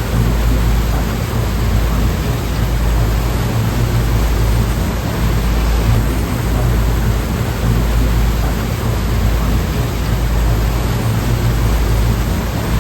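Sea surf washing steadily, a continuous hiss of waves over a deep low rumble, with no single break standing out.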